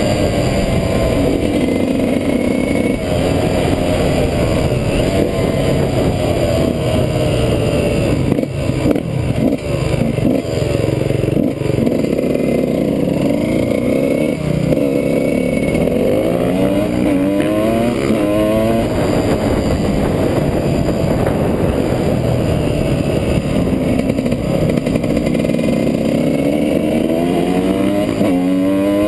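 Dirt bike engine running hard under load, its pitch sweeping up again and again as it accelerates and dropping back between sweeps, with some clatter and scraping from the ride.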